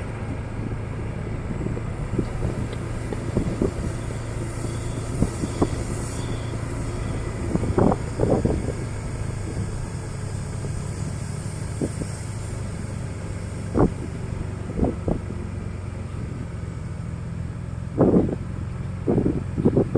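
Motorbike engine running steadily while riding, with occasional short thumps and knocks, clustered about eight seconds in and again near the end.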